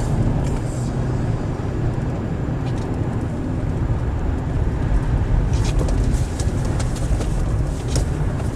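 Car driving on a winter road, heard from inside the cabin: a steady low rumble of engine and tyres, with a few sharp clicks or knocks in the second half.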